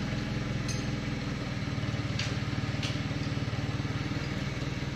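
An engine running steadily at idle with an even low pulse, and a few light clicks over it.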